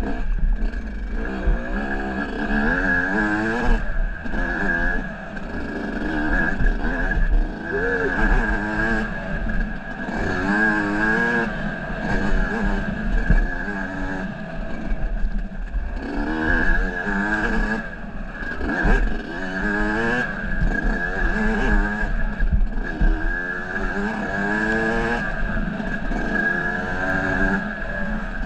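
Off-road vehicle engine revving up and down over and over as the throttle opens and closes on a trail ride, with a steady high whine running alongside.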